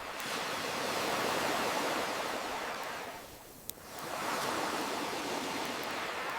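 Ocean waves washing ashore in two surges with a lull between them, and a single sharp pop from a wood campfire in the lull about halfway through.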